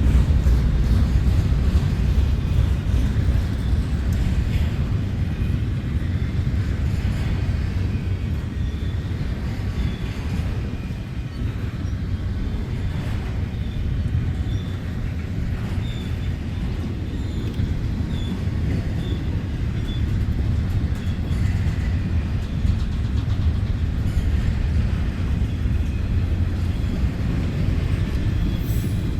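Long CN freight train's cars rolling past: a steady low rumble of steel wheels on rail, with faint, brief high squeaks now and then.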